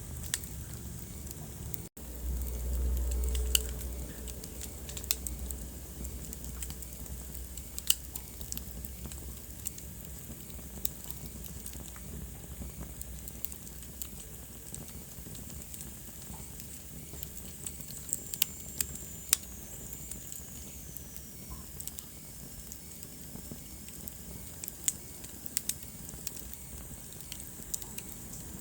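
Wood fire burning in a fireplace, with sharp crackles and pops at irregular moments over a steady low rustle. About two seconds in the sound briefly drops out, then a low rumble swells for a second and a half. A faint high whistle slides down in pitch around the middle.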